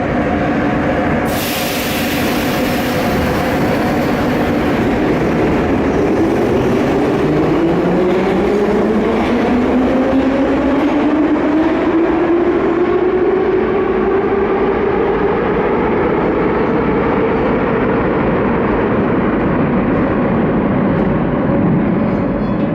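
Moscow Metro train running with loud, steady rail noise, a brief hiss near the start, then a whine that rises slowly in pitch over about twelve seconds as the train picks up speed.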